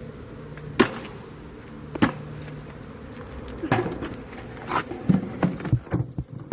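Honeybee swarm buzzing steadily, with sharp taps and knocks every second or so that come more often near the end.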